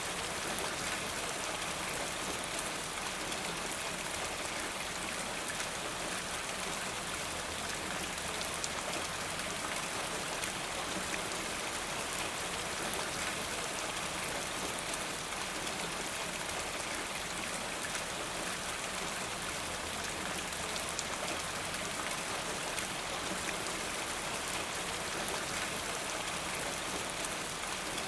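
Steady rain falling, a dense even hiss of drops with no break or change in strength.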